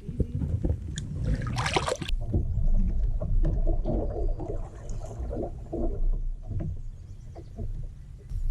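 Kayak on the water: handling knocks and clicks on the hull, with water sounds and a low rumble, and a brief rushing noise about a second and a half in.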